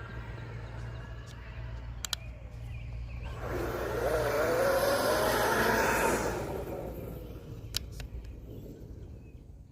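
1/5-scale RC jet truck with twin 120 mm electric ducted fans making a pass: a rushing whine with a wavering pitch swells up about three and a half seconds in, peaks, and fades away after about six seconds.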